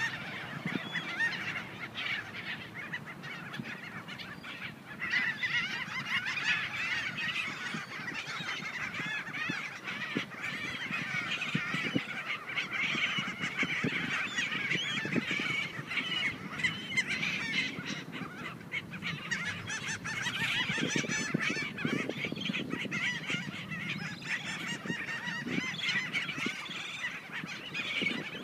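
A large flock of seagulls calling non-stop, many shrill calls overlapping, as they squabble over bread and potato chips in a feeding frenzy.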